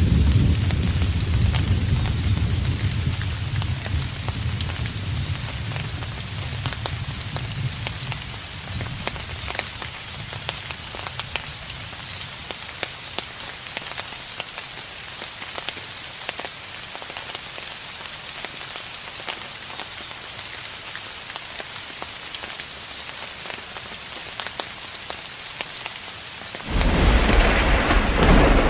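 Steady rain falling, with individual drops ticking. A deep roll of distant thunder fades out over the first several seconds, and another thunderclap breaks in suddenly near the end.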